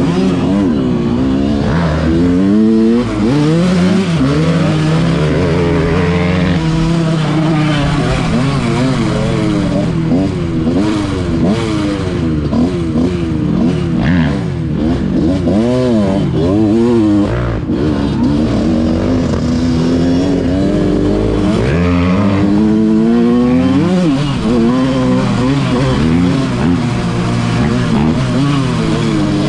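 Motocross dirt bike engine being ridden hard, its pitch climbing and dropping again and again as the rider works the throttle and shifts.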